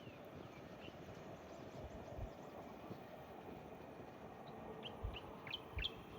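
Faint outdoor background hum, with wind thumping the microphone a few times. A small bird gives a quick falling chirp at the start, then a run of short, quick chirps near the end.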